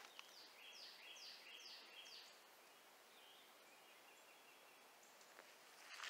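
A bird calling faintly: a quick run of about five down-slurred notes, roughly two a second, followed by one fainter note.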